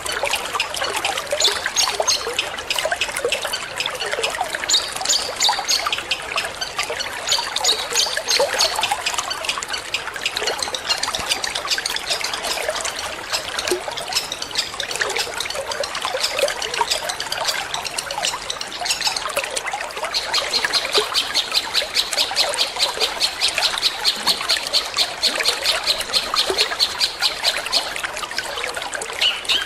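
Water trickling steadily, layered with a long-tailed shrike's fast, repetitive 'petir' song. From about two-thirds of the way in, the song becomes a dense run of rapid, sharp high notes.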